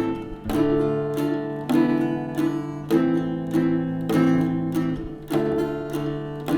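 Instrumental music: plucked strings playing a repeating passacaglia figure, a new group of notes struck about every second and ringing on between.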